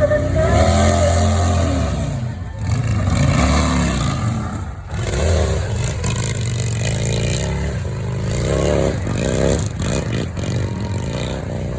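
Harley-Davidson hill-climb motorcycle engine revving, its pitch swelling up and falling back several times as the throttle is blipped, then running on with rough, uneven revs.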